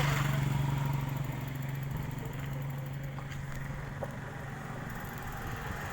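A vehicle's motor running with a steady low hum that slowly fades.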